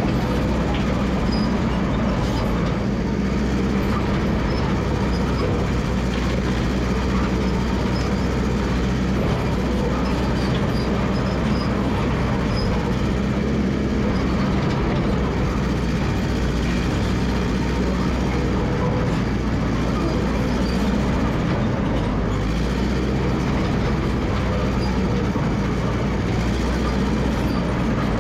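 Massey Ferguson MF 300 crawler dozer working, its engine running steadily and its steel tracks clattering as it moves.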